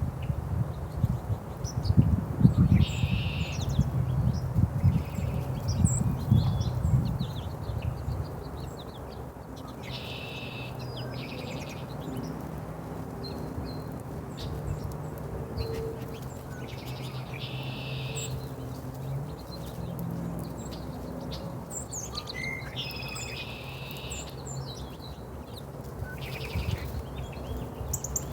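Small birds chirping, with short buzzy calls every few seconds. For the first seven seconds or so a rapid run of low knocks and bumps is the loudest sound; after that a steady low hum lies under the calls.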